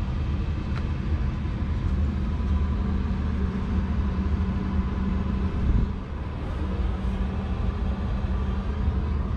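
Claas Axion 850's 6.7-litre six-cylinder diesel engine running at a steady speed, with a brief swell and dip in its note about six seconds in.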